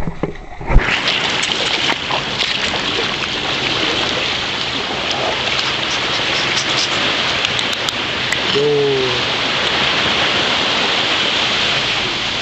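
A steady hiss of rushing water that starts abruptly about a second in, with one short falling call near the nine-second mark.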